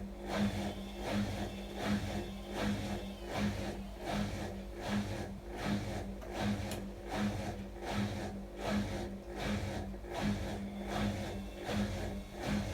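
Atlant washing machine running: a steady motor hum with a regular pulse about four times every three seconds, as the drum turns.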